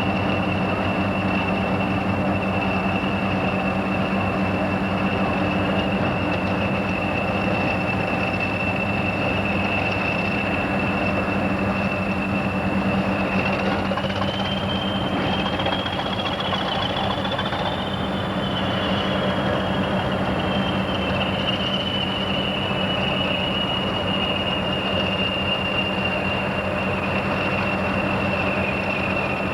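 Class 20 diesel locomotives' English Electric eight-cylinder engines running steadily, with a high whistle over them. About halfway through, the whistle rises in pitch, then slowly falls back.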